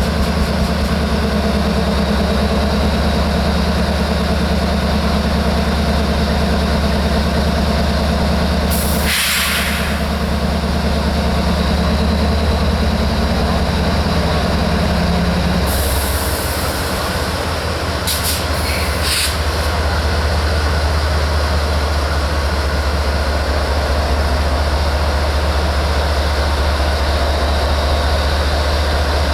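Diesel locomotive engine running steadily, with short bursts of air hissing from the train's air system about nine seconds in and again a few times later on; partway through, one of the engine's tones drops away.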